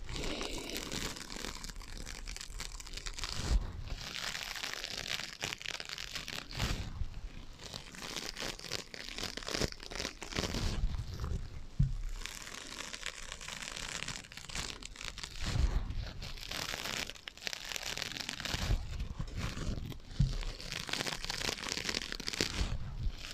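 Scratching on sponges: a continuous dry, crackly scratching with occasional soft low knocks, given an echo effect.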